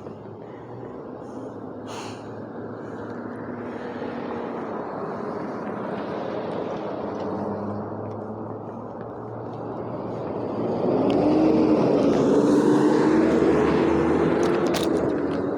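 A motor vehicle approaching and passing close by, its engine hum growing steadily louder and loudest in the last few seconds, with a few faint clicks near the end.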